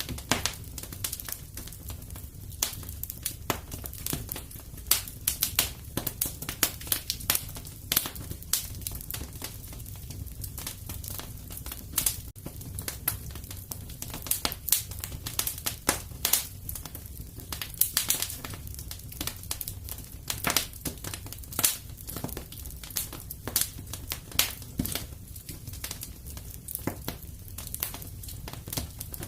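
Wood fire burning in a fireplace: dense, irregular crackles and snaps over a low, steady rumble of the flames.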